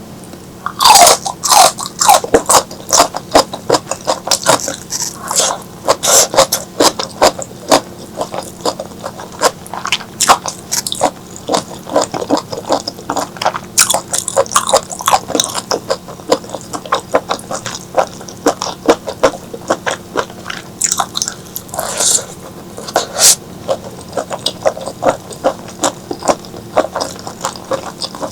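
Close-miked eating of spicy squid and okra curry: steady wet chewing and biting, with many quick mouth clicks and smacks. There are a couple of longer slurping sounds, one about a second in and one near the last quarter.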